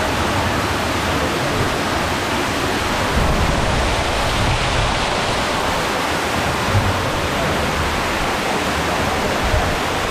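Waterfall's rushing water, a loud steady roar with no letup, with a few low rumbling swells.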